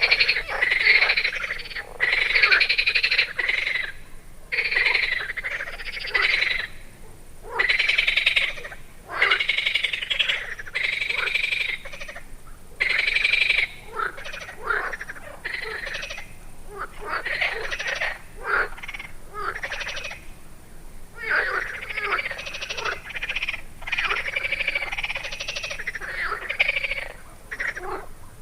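Frogs calling in chorus, repeated croaking calls of about half a second to two seconds that overlap and come in irregular bouts.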